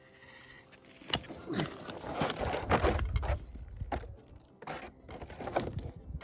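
Gold-prospecting metal detector swept back and forth over a target: a faint, soft signal tone with the rustle and knocks of the search coil and handling. The prospector suspects the soft response may be a hot rock.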